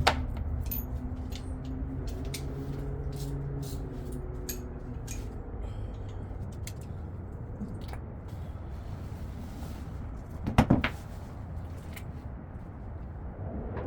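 Scattered light clicks and taps with one heavier knock about ten and a half seconds in, over a low steady rumble: hand tools at work fitting a new spark plug on a pit bike engine.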